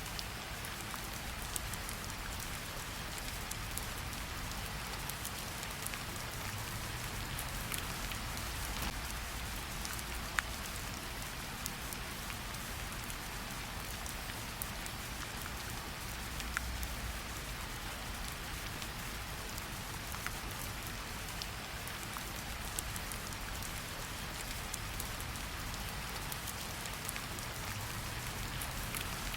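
Steady rain falling on tree leaves, a constant patter with scattered louder individual drips.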